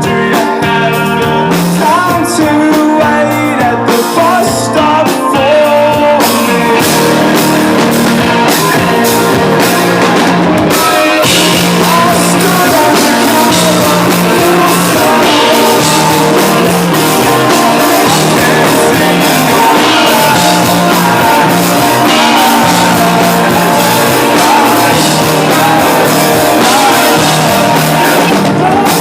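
Rock band playing live and loud.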